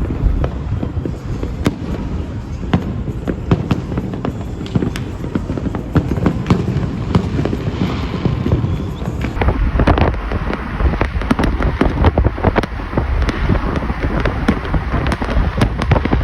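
Fireworks going off: a dense, unbroken run of bangs and crackles over a low rumble.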